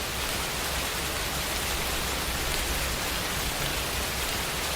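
Steady hiss of a rain shower falling, with no distinct drops or breaks.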